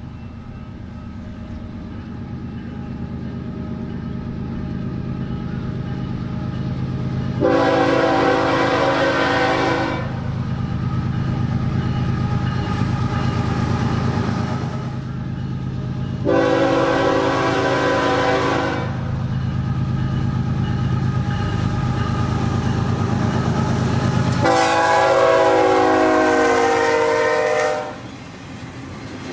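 BNSF diesel locomotive approaching, its engine rumble building steadily, sounding its air horn in three long blasts; during the last blast the pitch drops as the locomotive passes.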